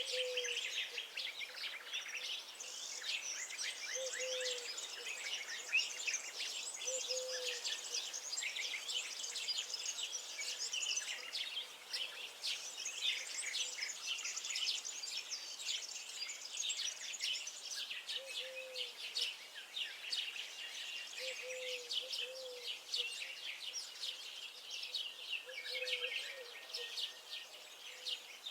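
Dense chorus of many songbirds singing, with quick chirps and trills overlapping throughout. A short, low call repeats every few seconds beneath it.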